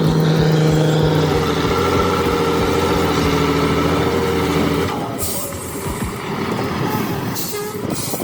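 Heavy truck engine running steadily under load, a loud pitched drone. About five seconds in the drone drops away to quieter road noise with short hissing bursts.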